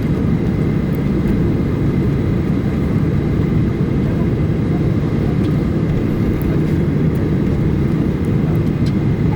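Steady low rumble inside the cabin of a Boeing 737-800, its CFM56-7B jet engines running ahead of take-off. A faint steady high tone sits over the rumble.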